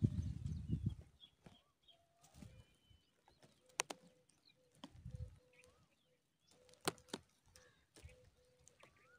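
Faint, scattered bird chirps, with low rumbling thumps near the start and again about five seconds in, and two sharp clicks.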